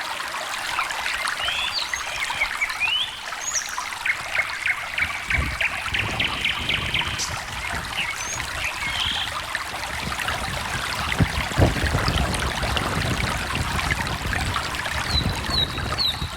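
Small stream trickling and gurgling steadily, with short bird chirps and whistles over the water now and then.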